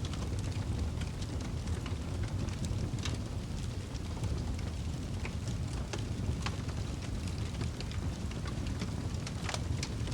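Wood fire burning in a fireplace: a steady low rush of flames with irregular crackles and pops from the burning logs, a few sharper snaps about six seconds in and near the end.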